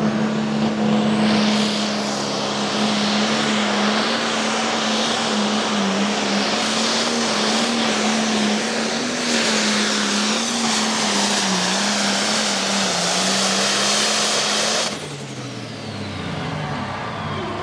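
Single-turbo diesel super stock pulling tractor running flat out under load as it drags the sled, a loud steady engine note that wavers slightly in pitch. About fifteen seconds in the throttle is cut suddenly and the engine winds down with a falling pitch.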